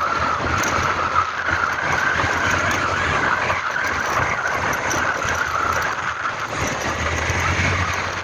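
Steady engine and road noise of a vehicle being driven, with a constant higher-pitched hiss or whine running over a low rumble.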